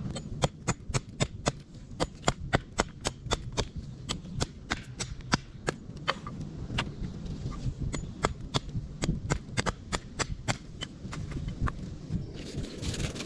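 A quick series of sharp knocks, about three a second, over a steady low rumble.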